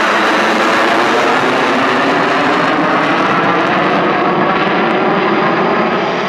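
Eurofighter Typhoon jet running loud and steady.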